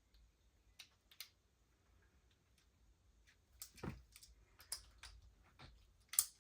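Scattered small clicks and light knocks of airsoft pistol parts being handled and fitted together by hand, with a couple of louder knocks in the second half.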